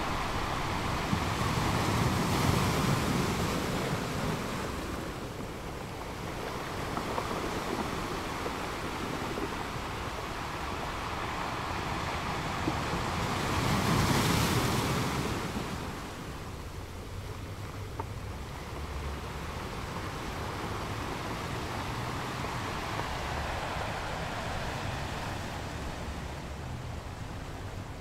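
Ocean waves breaking and churning into foam, a continuous rush of surf that swells at about two seconds in and loudest at about fourteen seconds in, then settles to a steadier wash.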